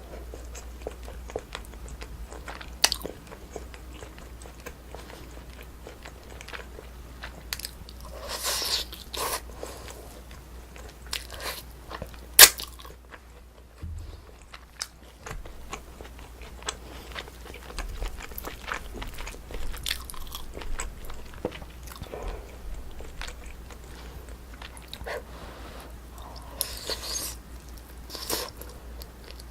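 Close-up eating of braised spicy chicken: chewing, biting and wet mouth sounds come in flurries, with scattered short clicks and one sharp loud click a little under halfway through.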